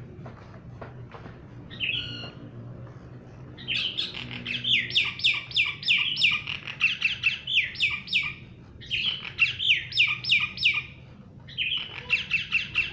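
A bird calling in three bouts of fast, repeated short falling chirps, about four a second, after a single short call about two seconds in.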